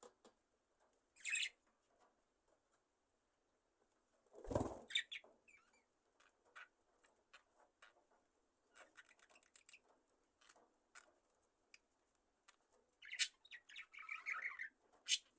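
Budgerigars chirping softly, with scattered small clicks and rustles, a brief louder wing rustle about four seconds in, and a short burst of warbling chatter near the end.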